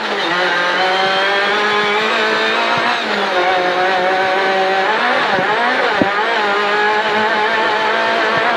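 Rally car engine running hard at high revs, heard from inside the cockpit on a long flat-out dirt straight. The pitch holds steady, dips briefly about three seconds in and wavers around five to six seconds, with a single sharp knock about six seconds in.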